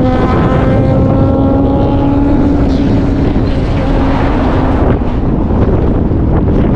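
Moving vehicle on the road, with a steady rush of road and wind noise buffeting the microphone. An engine tone rises slightly in pitch during the first couple of seconds, then fades away about halfway through.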